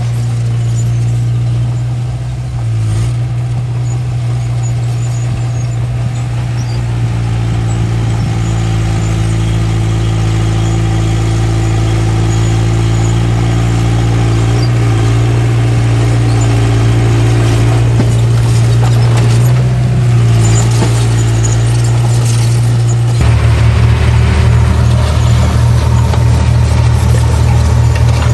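Small bulldozer's diesel engine running steadily under load. Near the end the engine note drops lower and turns into a pulsing throb.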